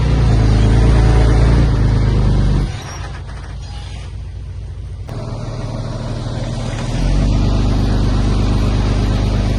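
Heavy construction machine's diesel engine running steadily. It drops to a quieter, lower note a little under three seconds in and comes back up to full level about seven seconds in.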